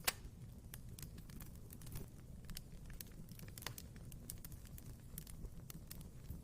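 Wood fire in a fireplace crackling, with irregular snaps and pops over the low rumble of the flames. One louder pop comes right at the start.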